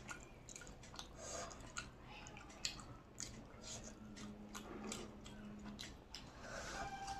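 A person chewing a mouthful of food, with many irregular wet mouth clicks and smacks.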